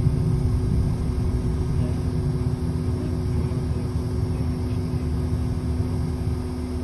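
City bus in motion, heard from inside the passenger cabin: a steady low rumble of engine and road with an even hum over it.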